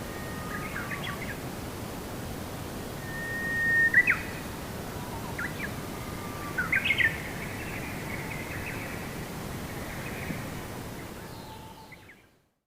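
Small birds calling and chirping in a forest, short whistled notes and chirp clusters, one with a held whistle ending in a quick upward sweep, over a steady low background rush. The sound fades out to silence near the end.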